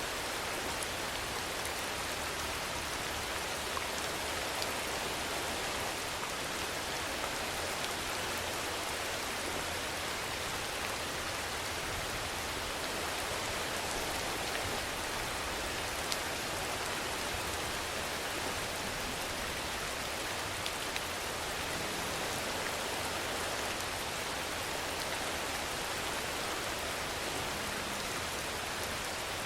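Steady rainfall: an even, unbroken hiss of rain with a few scattered drop ticks.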